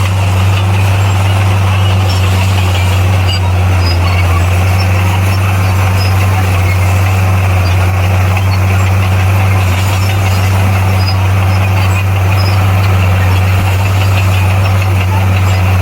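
Heavy diesel engine of a bulldozer running steadily, a loud, even low drone with no change in speed.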